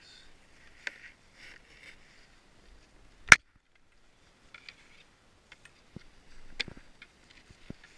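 Scattered light rustling and small clicks, with one sharp, loud knock a little over three seconds in and another clear click later on.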